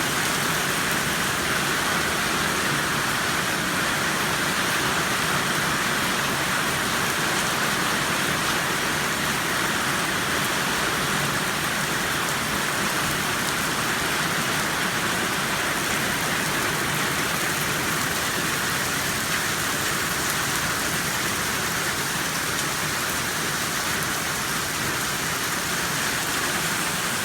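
Heavy rain falling steadily on surfaces, a constant even hiss.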